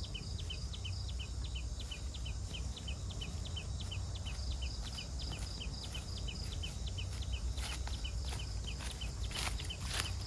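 Forest ambience: a short high chirp repeating evenly about three times a second over a low steady rumble, with a few sharp rustling knocks near the end.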